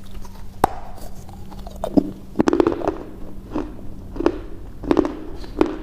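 Close-up crunchy chewing: a crisp crunch about every three-quarters of a second, with a quicker flurry of crunches about two and a half seconds in, over a faint steady hum.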